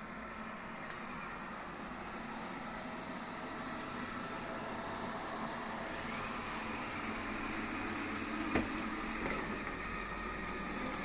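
Robot vacuum cleaner running, a steady whirring hum with faint whining tones that slowly grows louder. A single sharp knock about eight and a half seconds in.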